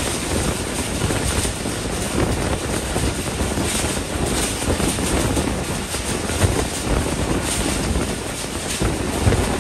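Moving passenger train heard from an open carriage door: a steady rush of wind on the microphone over the rumble of the coaches running on the rails, with two brief louder knocks in the second half.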